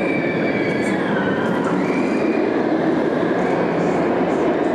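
Roller coaster train running along its track: a steady rumble with a high metallic wheel squeal that slides up and down in pitch.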